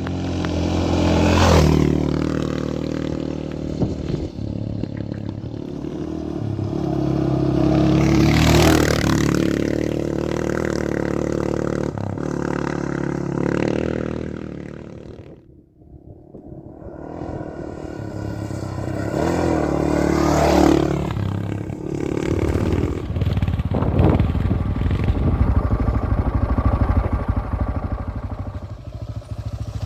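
Honda XR650R single-cylinder four-stroke motorcycle engine being ridden over rough ground, its pitch rising and falling with the throttle, with rattling and scraping. About halfway through the sound drops away almost to nothing for a moment, then builds again.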